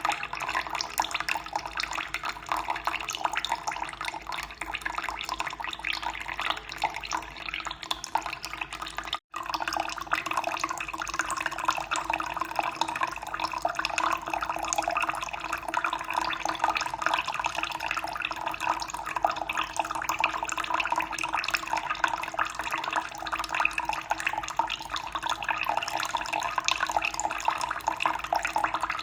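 Running water flowing steadily in a constant splashing rush, cut off for a split second about nine seconds in before carrying on.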